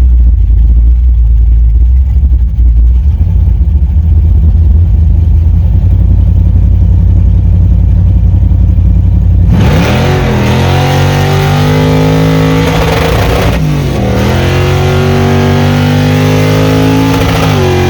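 V8 pickup truck engine: a low, steady drone at first, then, after a sudden change at about nine and a half seconds, hard acceleration with the pitch climbing, dropping at a shift about four seconds later and again near the end.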